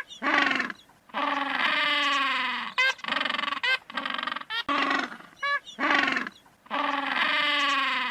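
Repeated animal calls: short, high, wavering calls alternate with longer, lower calls that fall in pitch, in a see-saw rhythm.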